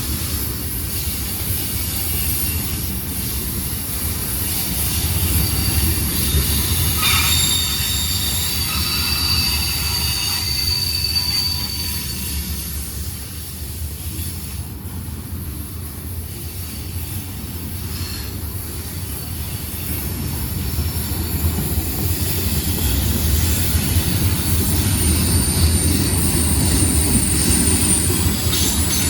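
Freight train cars rolling past: a steady rumble of wheels on the rails, with high-pitched wheel squeal that comes and goes, strongest about a third of the way in and again near the end.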